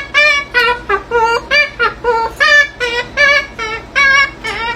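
A parrot vocalizing in a rapid sing-song string of short, high-pitched notes, about three a second, each note bending in pitch.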